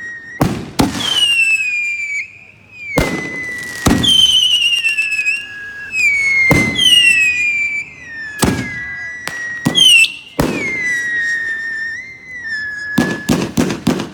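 Consumer fireworks going off: a string of whistling shots, each a high whistle that falls in pitch and trails on for a second or two, with sharp bangs between them. Near the end comes a quick run of closely spaced pops.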